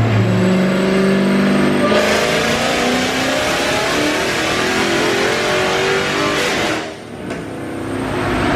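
Dodge Hellcat's supercharged 6.2-litre Hemi V8, breathing through a cat-delete catback exhaust, making a full-throttle pull on a chassis dyno: the revs climb from idle into a loud, rising roar, then drop off sharply about seven seconds in as the throttle is lifted.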